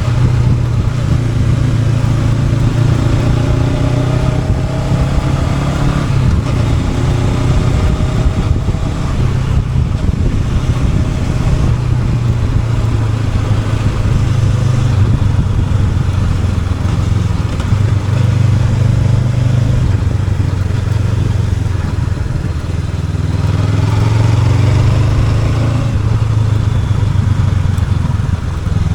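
Honda NX500 parallel-twin engine running on the move. Its pitch climbs in the first few seconds and again near the end as it accelerates, over steady road and wind noise.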